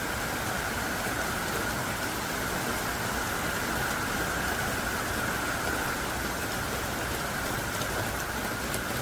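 Heavy rain falling thick and hard, a steady, unbroken downpour.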